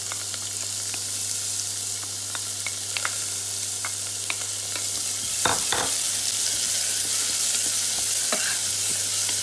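Soaked chana dal sizzling in hot oil as it is tipped into an aluminium pressure cooker with garlic and whole spices, then stirred with a wooden spatula. A steady frying hiss runs under scattered clicks of lentils and spatula against the pot, with a couple of louder scraping strokes in the second half.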